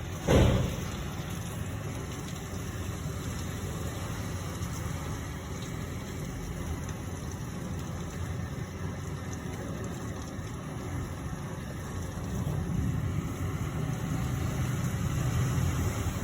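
Heavy rain falling steadily, with one sudden low thump just after the start and a low rumble that swells over the last few seconds.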